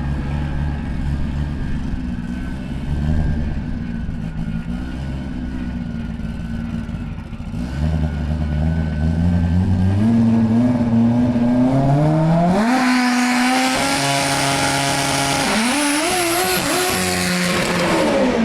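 A drag car's engine idling with a low, uneven note, then revving and accelerating hard through its gears, its pitch climbing in steps. It is loudest over the second half and falls away at the very end.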